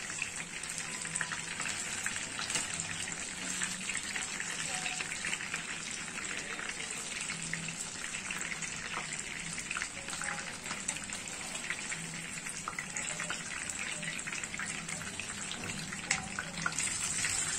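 Tandoori-marinated chicken drumsticks shallow-frying in hot oil in a non-stick pan, with a steady sizzle and crackle. Now and then the metal tongs turning the pieces give a light click. The pieces are fried through, near the end of frying.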